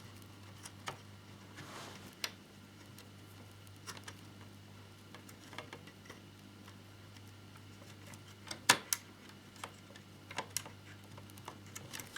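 Light, scattered clicks and taps of a small screwdriver and plastic model parts while tiny screws are driven into a scale model motorcycle's fairing support, with a sharper double click about three-quarters of the way through. A low steady hum runs underneath.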